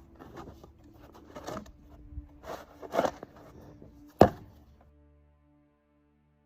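A few irregular knocks and scrapes, the sharpest and loudest about four seconds in. Soft, sustained music follows near the end.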